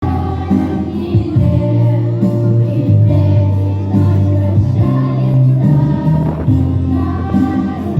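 A song played over a backing track with a steady, changing bass line, with a girls' vocal ensemble singing.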